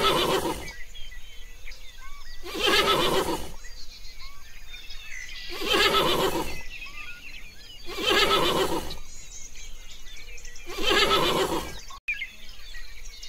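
A horse neighing in five short, evenly spaced neighs, about one every two and a half to three seconds, with small birds chirping in the background.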